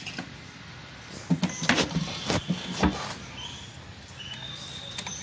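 A cluster of knocks and clattering, hard objects being handled and set down, for about a second and a half from just over a second in, followed by a few faint high chirps.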